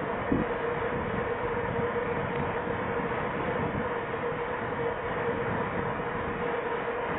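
Steady rolling and wind noise from a mountain bike being ridden, picked up by a head-worn camera, with a constant hum running under it.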